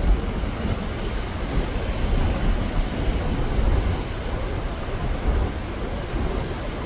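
Wind buffeting the microphone in uneven low gusts over a steady, even roar.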